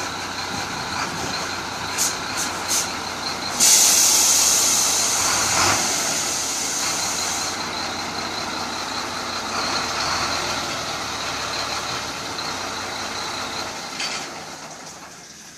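Chenglong truck running, with a few sharp clicks and then a loud hiss of released air starting suddenly about four seconds in and lasting several seconds. The truck fades away near the end.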